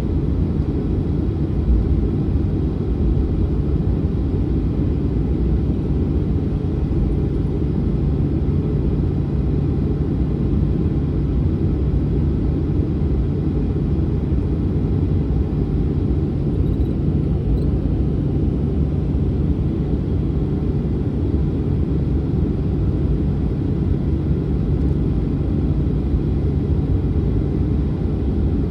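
Boeing 737-900's CFM56-7B jet engines heard as a steady, deep cabin rumble with a constant low hum.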